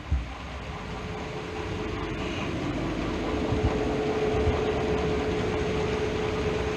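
OO gauge model train running along the track: a steady motor hum with one held tone that grows louder over the first few seconds and then holds, with occasional low knocks.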